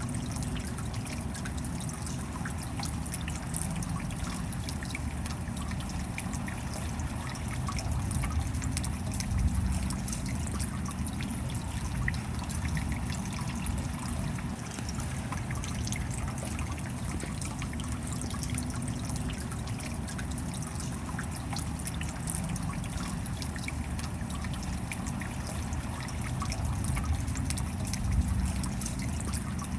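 Steady rain with close drips and trickling water, a fine patter of drops over a low rumble, swelling slightly twice.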